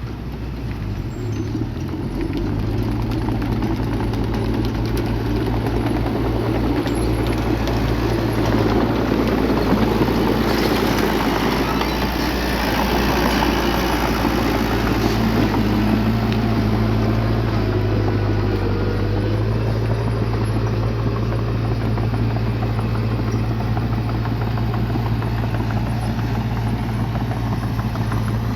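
Bulldozer's diesel engine running steadily, its note rising about two seconds in and then holding.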